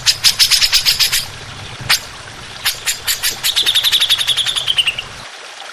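Songbird song from a bird-tutoring recording: a fast train of sharp chattering notes, about ten a second, then a single note, then another quickening series laid over a long whistle that slowly falls in pitch, ending in a brief lull.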